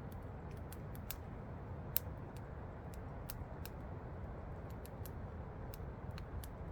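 Wood campfire crackling with irregular sharp pops, the loudest about two seconds in, over a steady low rush of falling water.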